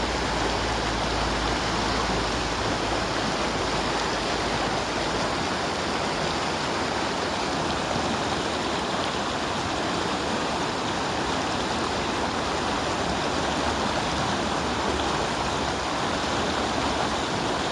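River current rushing steadily, an even wash of water noise.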